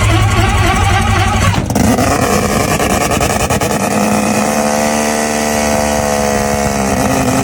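V10 car engines running just after a cold start, in two clips: a steady engine note that cuts off abruptly about a second and a half in, then a second engine whose pitch slowly swells and eases back between about four and seven seconds in.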